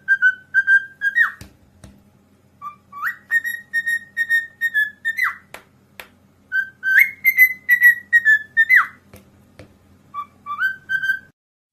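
Parrot whistling a tune in phrases of short repeated notes on nearly one pitch, each phrase ending in a quick downward slide, with pauses between them.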